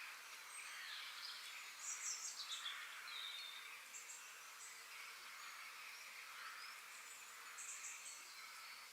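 Birds chirping over a steady hiss of insects, with a quick run of falling chirps about two seconds in and short calls later on.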